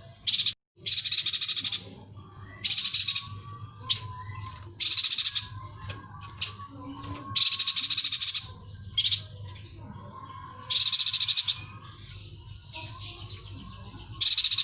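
Yuhina song: loud, rapid high trills of about half a second to a second each, repeated every second or two, with softer twittering between them.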